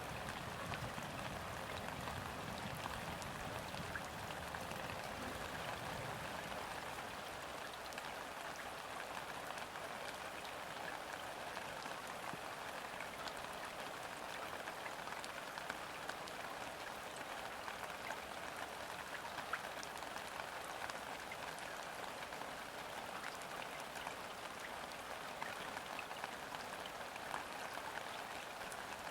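Steady gentle rain pattering on a river's surface, a dense hiss of countless small drops. A low rumble of distant thunder dies away over the first few seconds.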